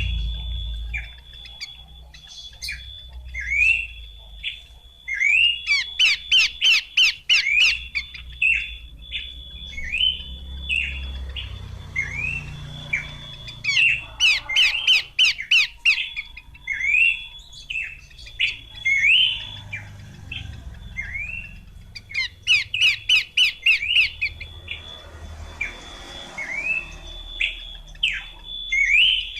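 Pelanduk semak (Horsfield's babbler) calling: short, sharp sweeping notes repeated again and again, broken three times by a burst of fast rattling chatter, about 6, 14 and 22 seconds in. A steady thin high tone and a low rumble run underneath.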